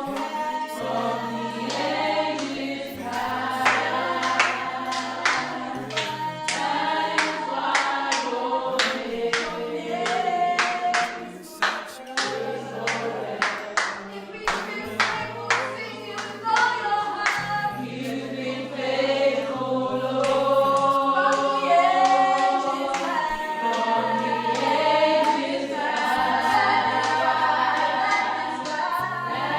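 Music: a choir singing a worship song over a stepping bass line and a regular beat.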